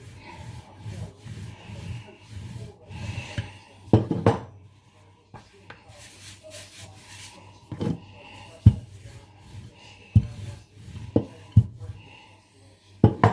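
Rolling pin rolling out shortcrust pastry on a floured worktop, a soft repeated rubbing, with several sharp knocks from about four seconds in.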